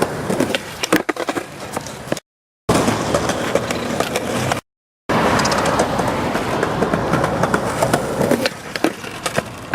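Small hard wheels rolling over pavement, a continuous rough rumble with scattered clicks and knocks. The sound cuts to dead silence twice, about two seconds in and again near the middle, before the rolling starts up again.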